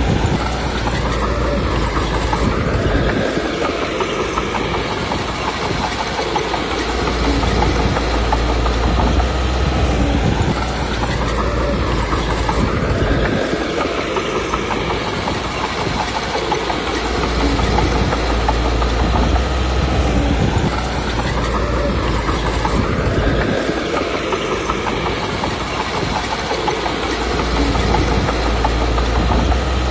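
Komatsu D21P crawler bulldozer working: its diesel engine running under changing load with steady track clatter. The engine note rises and falls in a repeating cycle about every ten seconds, with heavy low rumbling surges between.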